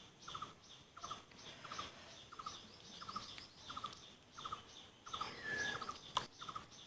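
Faint, regularly repeating animal calls in the background: a short call of a few quick pulses about every two-thirds of a second, with higher chirps above it. A single sharp click comes near the end.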